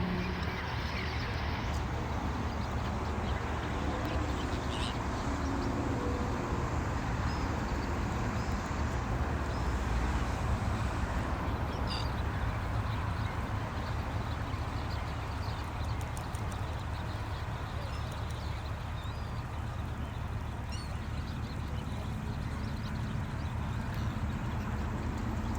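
Steady low rumbling background noise with a few short, faint bird calls.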